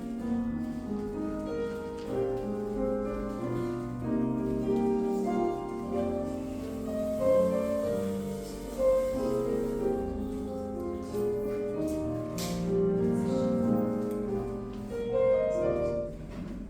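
Classical piano accompaniment for a ballet class exercise, played back over a speaker, with a few short knocks over it.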